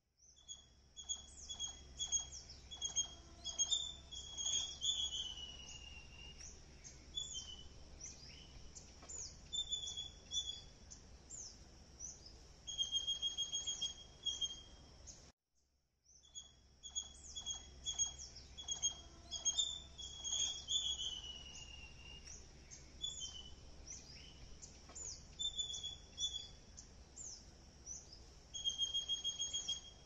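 Small birds chirping and calling, with many short, high, falling notes, a repeated trill and a steady low hum beneath. The same stretch of about fifteen seconds plays twice, with a brief drop-out between, as in a looped ambience track.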